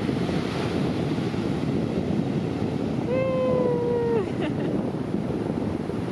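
Ocean surf breaking and washing on a beach, with wind on the microphone. About three seconds in, a single drawn-out pitched call lasts a little over a second and falls slightly at its end.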